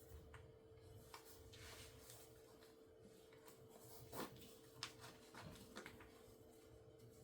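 Near silence: faint room tone with a steady low hum and a few soft clicks and rustles of something being handled.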